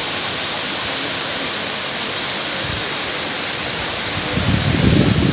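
Steady rush of a large waterfall, an even hiss of falling water. A low, uneven rumble comes in near the end.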